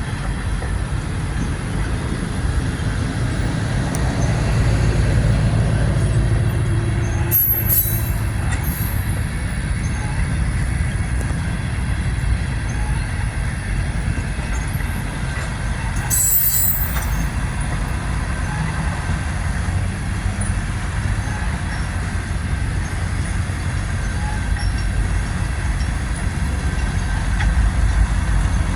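Freight tank cars rolling slowly through a tight curve: a steady low rumble of wheels on rail, with two short, high wheel squeals, one about a quarter of the way in and another just past the middle.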